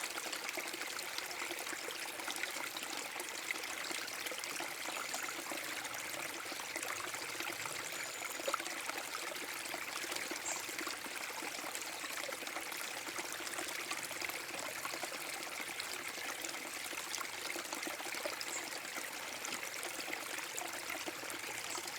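Small forest brook waterfall: water splashing and trickling over rocks in a steady, unbroken rush.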